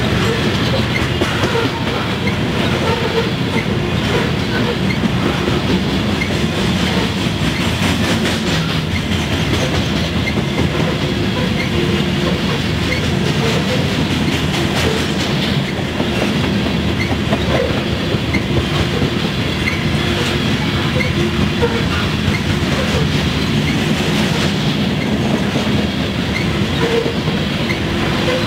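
Covered hopper cars of a CSX grain train rolling past close by: a steady rumble of steel wheels on the rails with repeated clicks throughout.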